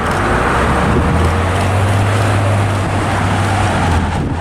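Jet airliner landing: a loud, steady low rumble of its engines with a broad rushing noise over it.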